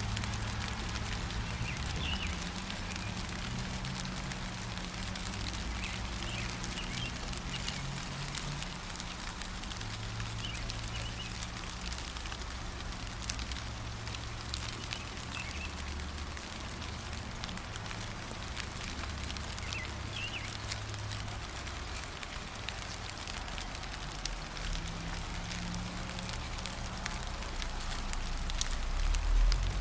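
Steady light rain with drops pattering, and short bird chirps now and then above it. A low rumble runs underneath and swells near the end.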